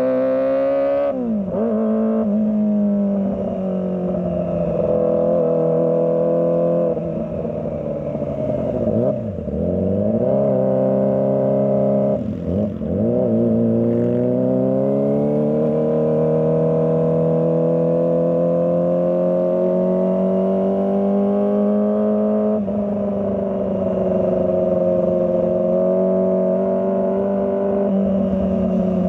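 Kawasaki ZX25R's 250 cc inline-four engine running under changing throttle, its revs rising and falling. The revs dip sharply about a second in, and again around 9 and 12 seconds in, then climb steadily for several seconds.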